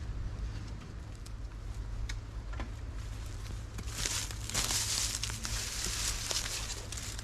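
Rustling and crackling of dry forest litter, with scattered small snaps at first and a louder bout of crunching from about four seconds in to near the end. A steady low wind rumble on the microphone sits underneath.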